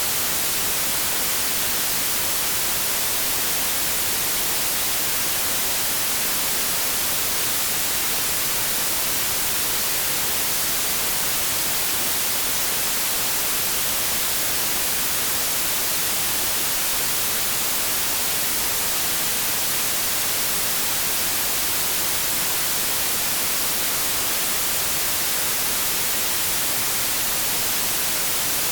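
Steady, unbroken white noise: an even hiss, strongest in the high frequencies, that never changes in level.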